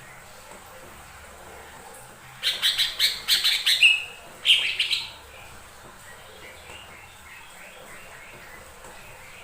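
Cucak ijo mini (small leafbird) singing a quick burst of rapid chirps with a short held whistle, about two seconds in and lasting around two and a half seconds; faint chirping follows.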